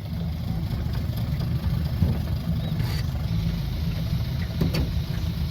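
A small boat's outboard motor running steadily at low speed, a low rumble.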